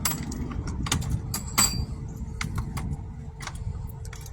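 Irregular sharp clicks and knocks, a dozen or so with the loudest about one and a half seconds in, over a steady low rumble.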